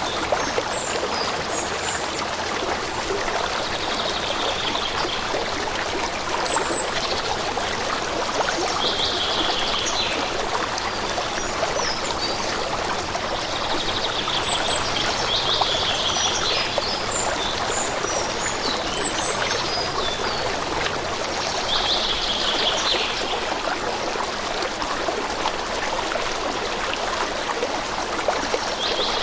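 A stream running steadily, with birds singing over it: a short song phrase repeating about every six seconds and scattered high chirps.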